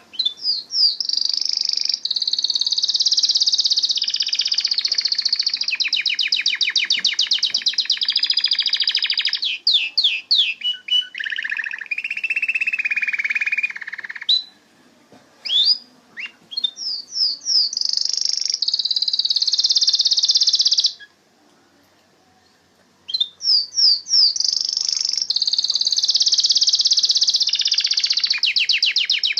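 Canary singing long phrases of rapid trills and chirps, with a short break about halfway and a longer pause about two-thirds of the way through.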